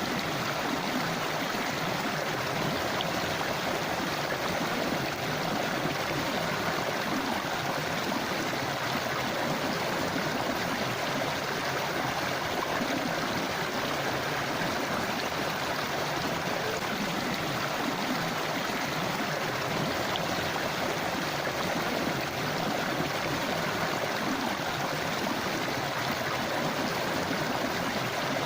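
Forest river flowing over rocks: a steady rushing and gurgling of water, even throughout.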